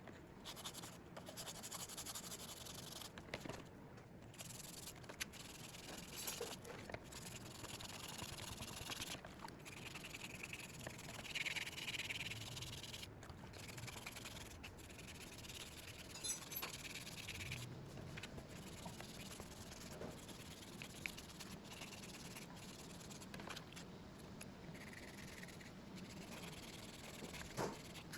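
Rubbing and scraping that starts and stops in patches, with a few light clicks.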